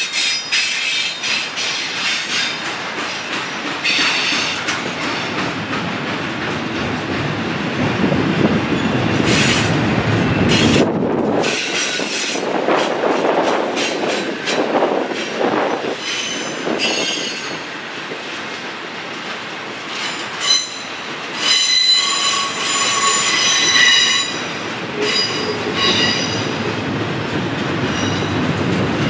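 Railroad cars rolling past on the rails with a steady rumble. Their wheels squeal in high, ringing tones that come and go and are strongest in the second half.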